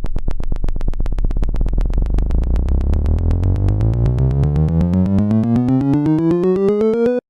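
Synthesized electronic buzz that climbs steadily in pitch for about seven seconds, its pulses speeding up, then cuts off suddenly.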